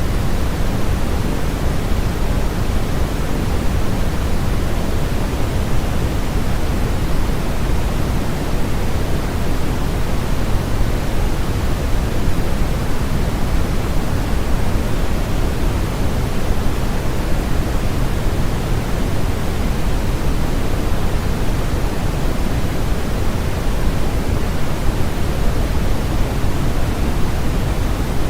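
Steady generated sleep noise: a constant, even hiss with no changes, weighted toward the low end, so it sounds deeper than flat white noise.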